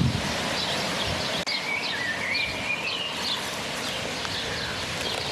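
Birds calling outdoors: short repeated chirps, and a rising warbled phrase that starts about a second and a half in. Under them is a steady hiss of light rain.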